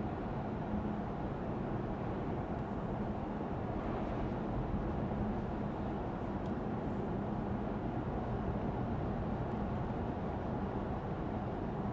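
Steady cabin noise of a Lexus ES 350 sedan on the move: road and tyre noise with a low hum, heard from inside the car.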